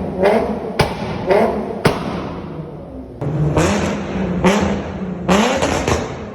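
Nissan 370Z VQ V6 on an aftermarket exhaust, revved in short blips: two revs, each followed by a sharp crack, then several more, the last few in quick succession. The sound changes abruptly about three seconds in.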